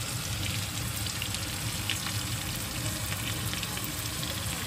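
Chicken tikka skewers sizzling in oil and marinade on a hot tawa griddle: a steady frying hiss with scattered small pops and crackles.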